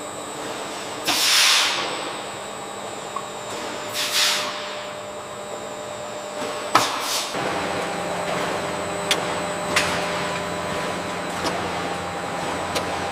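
Processing machinery running steadily with a hum, with two hissing swells in the first few seconds and scattered sharp clicks; a deeper hum joins about halfway through.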